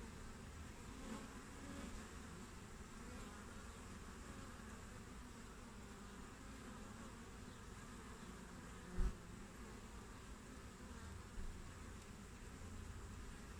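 Honeybees buzzing at a hive entrance: a faint, steady drone of many wings, with one brief low thump about nine seconds in.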